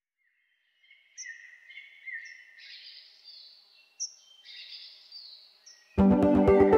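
Birds chirping and calling, a string of short sweeping calls. About six seconds in, loud music with a steady beat comes in suddenly.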